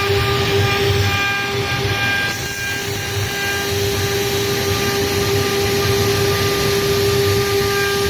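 CNC stone router spindle running at speed while machining stone: a steady whine over grinding noise, dipping slightly about two and a half seconds in.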